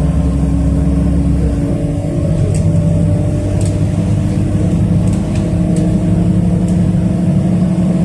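City bus engine running as the bus drives between stops, heard from inside the passenger cabin; the engine note steps to a new pitch a few times, with a handful of faint clicks or rattles.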